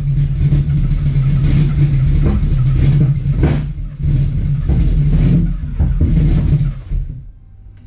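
Supercharged, cammed Ford Coyote V8 running rough just after starting, stumbling and surging unevenly, then dying about seven seconds in. The owner suspects the ignition timing is off and that it needs more fuel.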